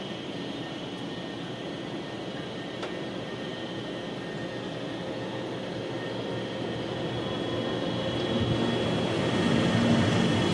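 A train approaching, its running noise with a faint steady high whine growing louder over the last few seconds.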